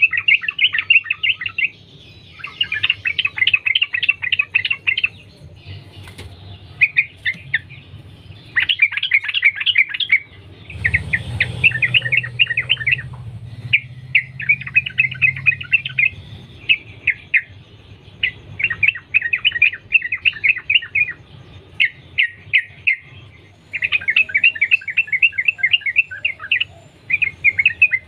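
Yellow-vented bulbul singing: runs of rapid chattering notes in phrases of one to three seconds, with short pauses between them. A faint low hum lies under the song around the middle.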